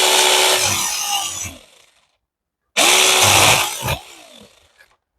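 Cordless 6-inch mini chainsaw with a brushless motor, run twice on the trigger: about two seconds, then about a second. Each run is a steady motor whine under the chain's hiss, falling in pitch as the motor winds down after release, while it cuts a branch on the extended pole.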